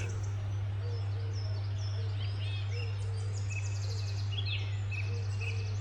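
Several wild birds singing and chirping, with quick runs of high repeated notes through the middle. A steady low hum runs underneath.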